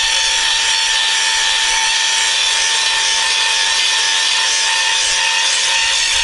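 Power grinder running steadily against steel: a constant whine over a hiss.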